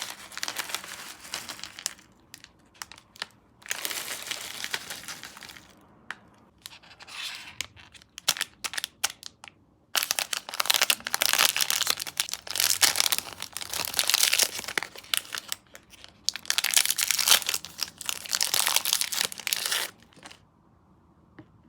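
Packaging for sweets crinkling and being torn open in bursts of several seconds with short pauses between them, as sweets are unpacked. The sound stops near the end.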